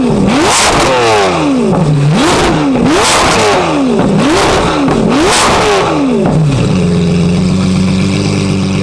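Straight-piped Lamborghini Aventador V12 revved hard about six times in quick succession, the pitch sweeping up and falling back roughly once a second. About two-thirds of the way through it settles to a steady, even engine note.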